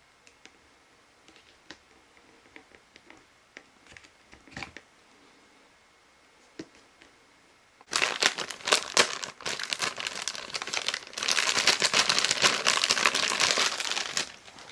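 A few faint small clicks, then about eight seconds in a loud, dense crinkling and rustling of something being handled, which stops shortly before the end.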